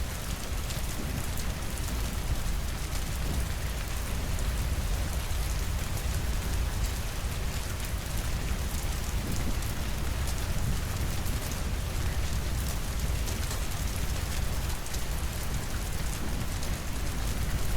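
Steady rainfall: a dense, even patter of drops over a constant low rumble.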